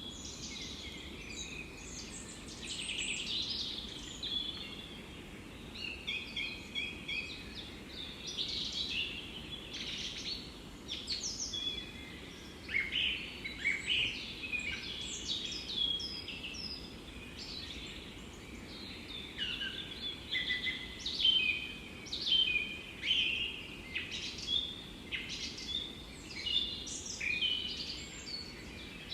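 Several songbirds singing at once, with overlapping chirps, trills and short falling whistles, over a steady soft hiss of forest ambience.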